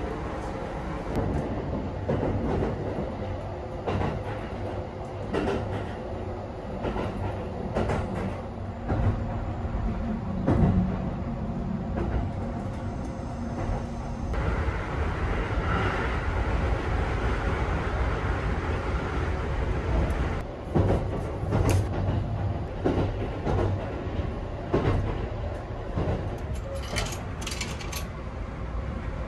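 Running noise inside a Kintetsu Hinotori limited express in motion: a steady low rumble with scattered clicks and knocks.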